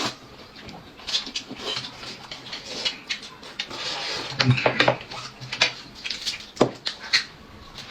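Dishes and eating utensils clinking and tapping at irregular moments as food is served and eaten, with one sharper knock about two-thirds of the way through.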